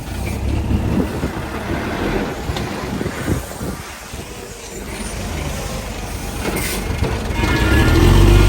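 Bulldozer at work: the diesel engine runs under a low rumble while the steel crawler tracks clank and squeal. The engine gets louder and rises in pitch near the end.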